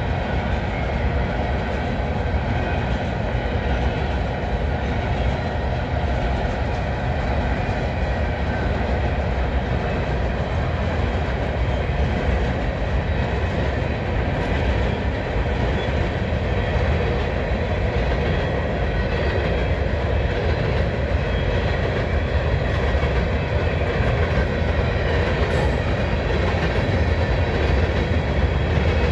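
Coal train's freight cars rolling past, a steady rumble and rattle of steel wheels on rail.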